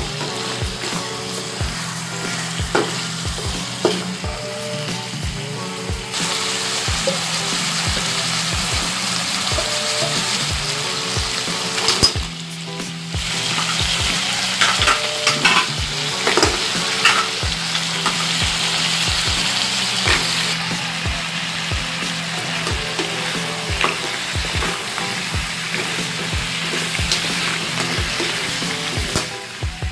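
Shrimp and mussels sizzling in hot oil in a wok while being stirred and tossed, the utensil clicking and scraping against the pan, most busily about halfway through.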